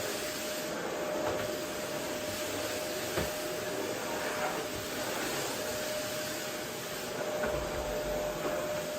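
Vacuum cleaner running steadily: a continuous rushing hiss with a steady whine through it, and a few faint low knocks.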